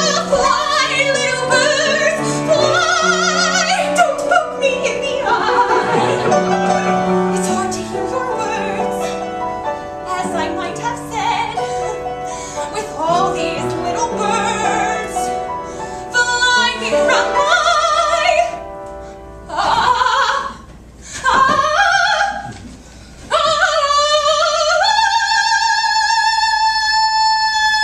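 A woman singing in operatic soprano style with strong vibrato over instrumental accompaniment. After a few short pauses she climbs to one long, high held note near the end.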